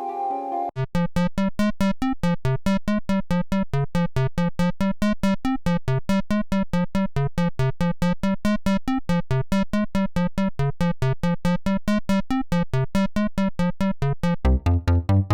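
Synthesizer music from the u-he Triple Cheese plugin: a held chord gives way, under a second in, to a fast repeating run of short plucked notes, about six a second. A deeper bass part joins near the end.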